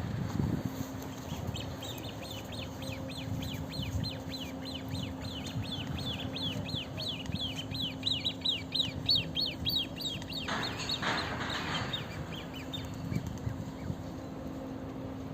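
A bird calling in a rapid series of short, high, slurred notes, about four a second, for roughly ten seconds and getting louder before it stops. A brief rush of noise comes near the end.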